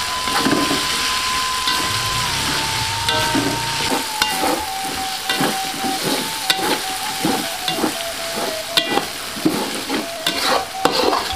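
Spice paste with lemongrass and leaves frying in oil in a wok, sizzling steadily while a slotted metal spatula scrapes and stirs it, about two strokes a second. It is the sauté stage, cooking the paste until the shallots turn fragrant.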